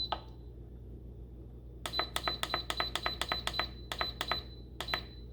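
Instant Pot control-panel beeps as its buttons are pressed to set the poultry program for 15 minutes: one beep at the start, then a quick run of about fifteen short, high beeps and two more near the end.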